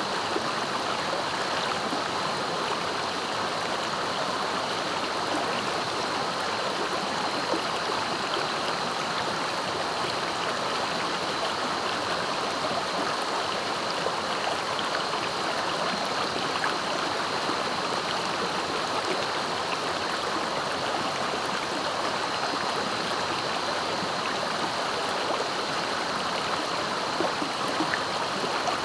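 A clear, swift river flowing, a steady, unbroken rush of water.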